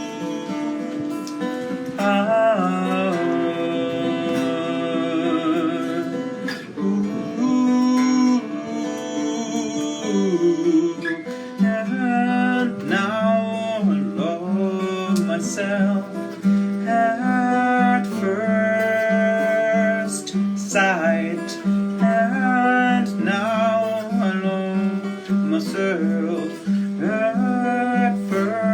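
Music: acoustic guitar playing, with a melody line over a repeating low note pattern that sets in about twelve seconds in.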